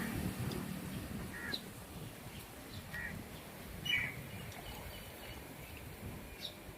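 A few short bird chirps, spaced a second or so apart, over faint outdoor background noise.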